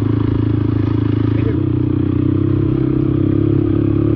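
Motorcycle engine running steadily under way, a continuous engine note.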